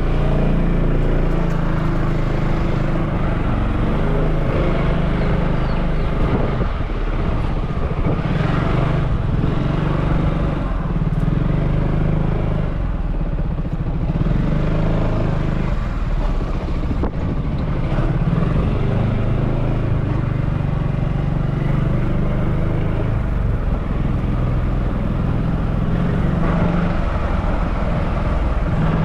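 Motorbike engine running steadily.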